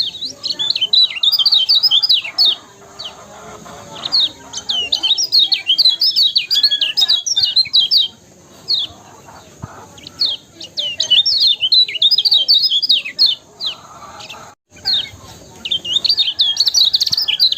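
Kecial kuning, a yellow white-eye, singing in rapid runs of high chirping notes, each run lasting a few seconds with short pauses between.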